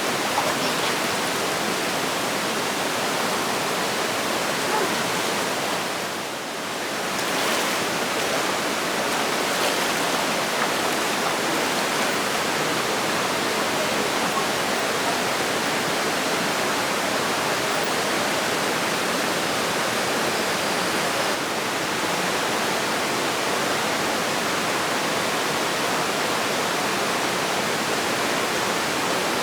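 Steady rushing noise of flowing water, dipping briefly about six seconds in.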